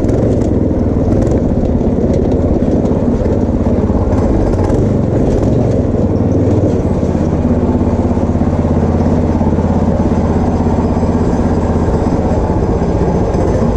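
Go-kart's small engine running steadily, a rapid low pulsing with a slight change in pitch about halfway through.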